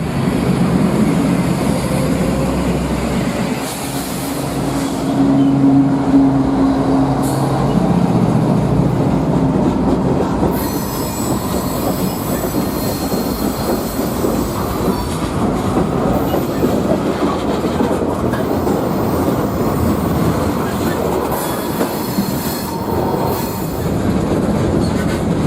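A train rolling past close by: steady noise of wheels on rails through the whole stretch, with a low engine tone in the first few seconds.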